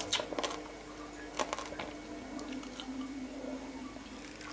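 Close-up biting and chewing of raw blue swimming crab pickled in fish sauce. A few sharp clicks come in the first second and a half, then softer chewing.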